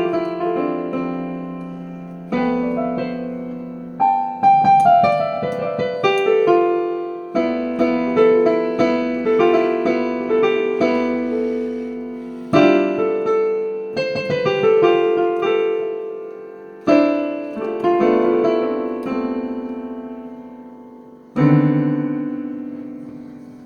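Solo piano-style keyboard playing the instrumental close of a song: chords and short melodic runs, each struck and left to die away, ending on a final chord about 21 seconds in that rings out and fades.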